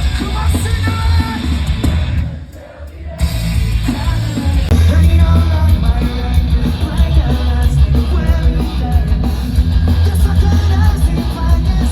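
Live punk rock band playing loud through a festival PA, with singing over guitars, drums and heavy bass. The music drops away briefly about two seconds in, then comes back at full level.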